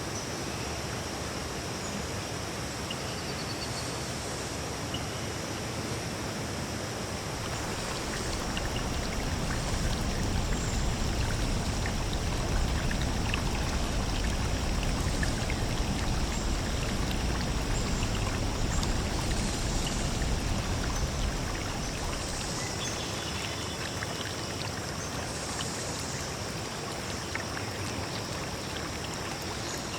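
Steady rushing water of a stream or waterfall. It swells louder and fuller for about ten seconds in the middle, then settles back.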